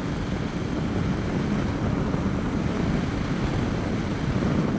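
Honda VFR750's V4 engine running at a steady pace on the road, mixed with wind rush, heard through a microphone on the rider's helmet.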